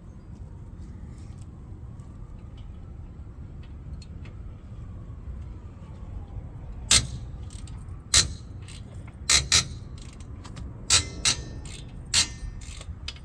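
Seven sharp metal knocks, irregularly spaced, beginning about seven seconds in, over a low steady hum: blows on a stubborn rear brake part that will not come free.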